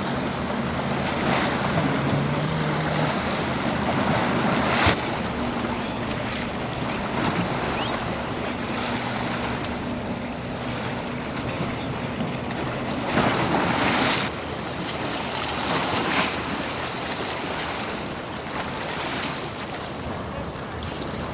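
Surf washing and breaking against the inlet jetty, with wind buffeting the microphone, under the low steady drone of a boat's engines. The waves surge louder several times, and there is one sharp slap about five seconds in.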